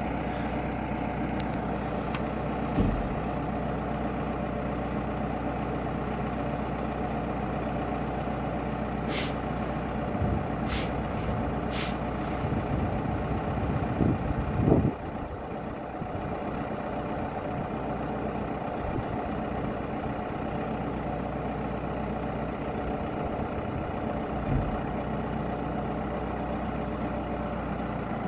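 Valmet 705 tractor's diesel engine running steadily under load while pulling a loaded forest trailer, with a few short squeaks and knocks around the middle and a louder clatter about halfway through, after which the engine note eases slightly.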